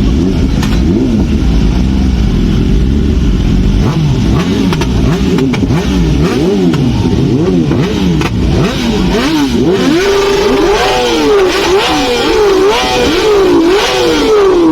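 Superbike engines being revved, the pitch climbing and falling in quick repeated throttle blips, higher and faster in the second half.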